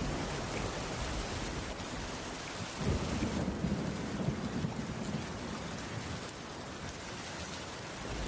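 Steady rainfall on a cabin roof, with a low roll of thunder that swells about three seconds in and fades away over the next couple of seconds.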